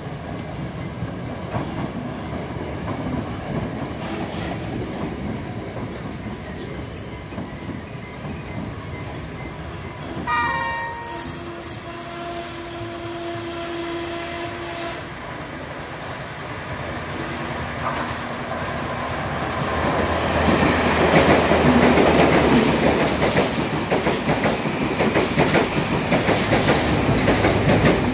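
Trains at a station. About ten seconds in there is a short train horn blast, followed by several seconds of high-pitched wheel squeal. Over the last third a class S13 diesel multiple unit passes close by, growing loud, with its engine drone and the rapid clatter of its wheels over the rail joints.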